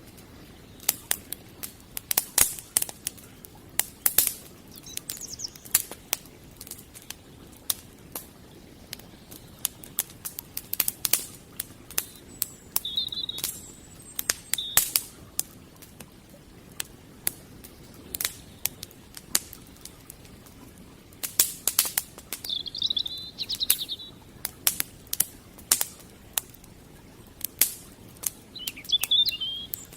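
Wood campfire crackling, with irregular sharp snaps and pops. Short bird chirps come in a few times, about halfway through and near the end.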